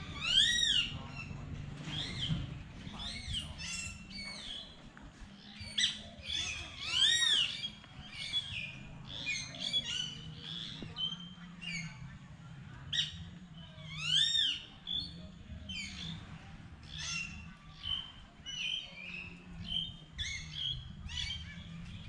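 Birds squawking and chirping. Short calls come one after another, and louder calls that rise and fall in pitch stand out about a second in, around seven seconds and around fourteen seconds, over a faint low steady hum.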